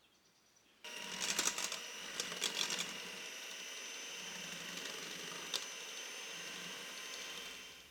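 A small electric motor starts suddenly and runs with a steady whine, rattling and clicking for the first couple of seconds, then fades out near the end.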